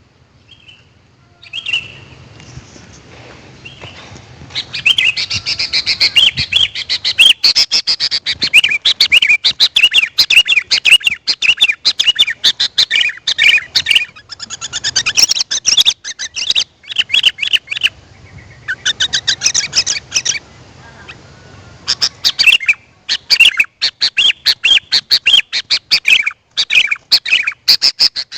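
Sooty-headed bulbul (kutilang) calling: a dense run of rapid, high chirping notes that sets in about four seconds in and goes on with a few short breaks.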